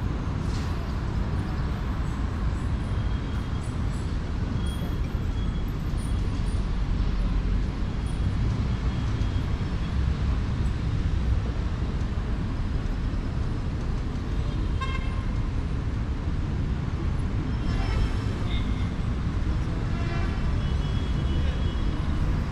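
Steady city street traffic, the engine and tyre noise of passing cars and buses, with a few short faint toots and clicks scattered through it.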